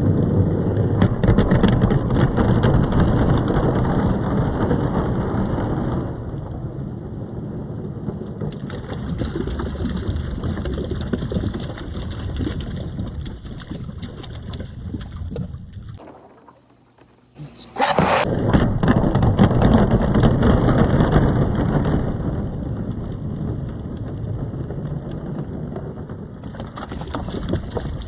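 Balls rolling and rumbling along a wooden marble-run track, in slowed-down playback, with water noise. The rolling drops away to near quiet about two-thirds through, then starts again after a sharp click.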